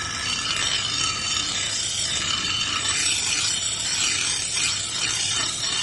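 Steady, harsh abrasive scraping of forged steel, with no hammer strikes.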